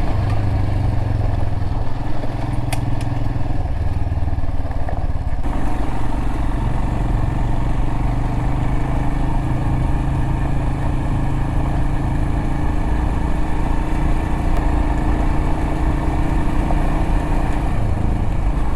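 Royal Enfield Himalayan's single-cylinder engine running steadily as the motorcycle rides along a dirt road. The sound changes abruptly about five and a half seconds in.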